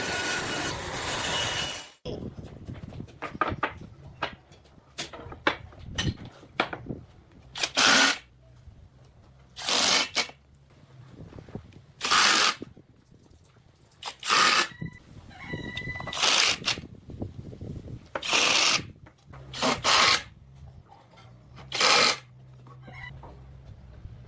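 Woodworking tool noise. A machine running loudly cuts off about two seconds in. Then come short, loud hissing strokes roughly every two seconds, with light clicks and knocks of wood between them.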